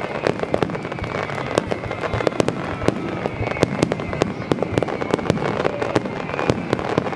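Fireworks display going off: a dense, irregular run of sharp bangs and crackles, several each second with no let-up.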